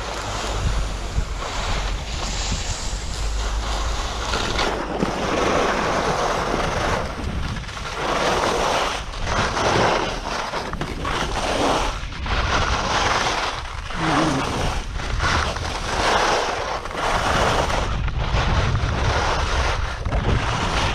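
Skis sliding and scraping on snow under steady wind noise on the microphone, with a swishing surge about once a second through the middle, typical of linked turns on a downhill run.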